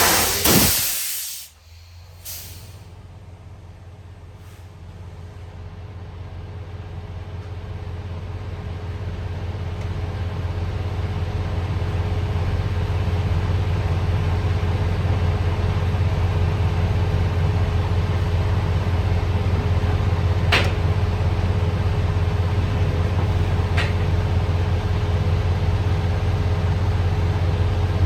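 Semi truck's air brakes letting out a loud hiss of air for about a second and a half, with a short second hiss just after. Then the truck's diesel engine idles with a steady low hum that grows louder over about ten seconds and holds; two faint clicks come near the end.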